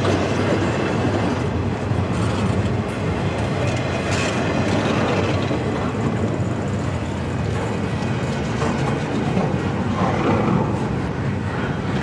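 Double-stack intermodal well cars rolling slowly past: a steady rumble of steel wheels on the rails.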